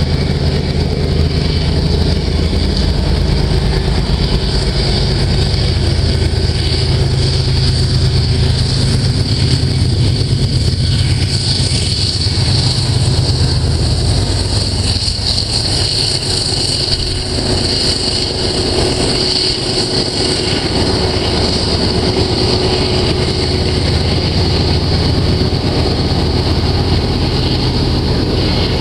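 Double-stack container freight train rolling past, its steel wheels running steadily on the rails. The diesel locomotives at the rear of the train pass about halfway through, and their low engine drone fades after that as they pull away.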